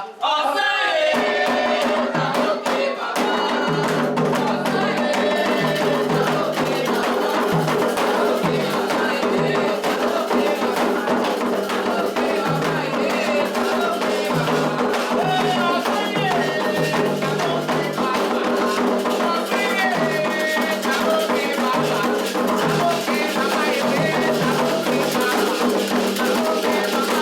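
Candomblé toque: atabaque hand drums and a shaken rattle keep a dense, steady rhythm under voices singing a chant. The full ensemble comes in right at the start, after a lone voice.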